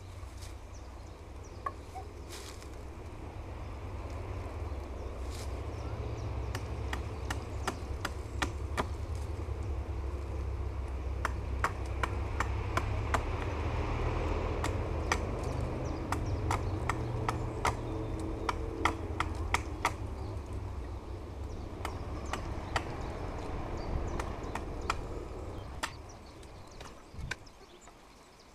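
Many sharp, irregular wooden knocks and cracks, clustered most densely in the middle, over a steady low rumble that swells and then fades near the end.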